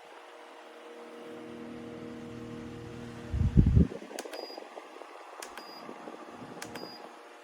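Orteen portable rechargeable fan running with a steady hum. About halfway through there is a loud low thump, then light ticks about once a second.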